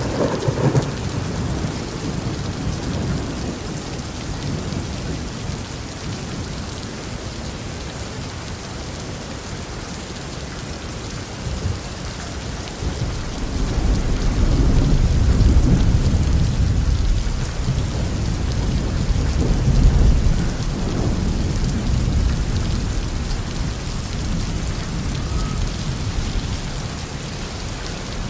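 Heavy rain falling steadily on a roof, with a low roll of thunder fading at the start. A second long thunder roll builds about halfway through, peaks twice and dies away.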